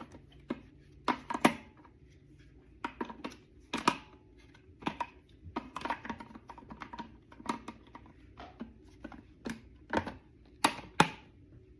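Irregular sharp clicks and knocks, a dozen or more spread unevenly, some with a short ringing tone, over a low steady hum.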